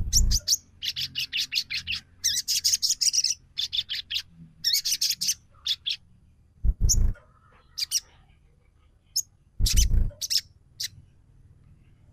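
Sogon (crested jay) calling: bursts of rapid, sharp, high chattering chips, each about a second long, repeated with short gaps. Two dull thumps come through partway through.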